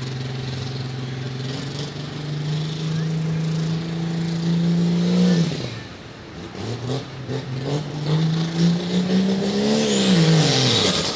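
Turbocharged diesel engine of a Light Limited Super Stock pulling tractor working hard under load, its pitch climbing steadily. The revs drop sharply about five and a half seconds in, build back up, then fall away again near the end.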